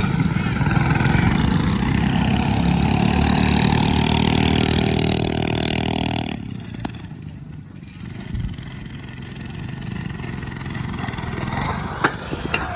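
Small mini bike engines revving hard as the bikes race, rising in pitch for about six seconds. The sound then cuts off suddenly and a quieter engine sound carries on, with a couple of sharp clicks near the end.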